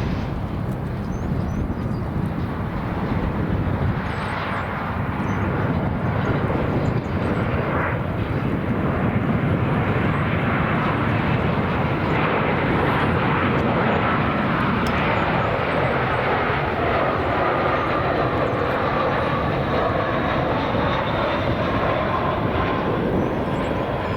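Jet airliner's engines rumbling and roaring as it passes, building in loudness over the first several seconds and then holding, with a faint whine sliding slowly down in pitch in the second half.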